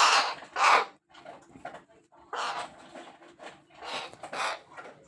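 A pet bird's harsh, raspy calls: a handful of short noisy bursts, the first few in quick succession and then spaced out.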